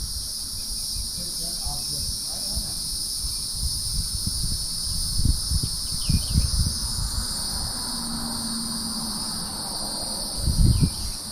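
Steady high-pitched chorus of insects, two unbroken shrill tones, with scattered low thumps, the loudest about halfway through and again near the end.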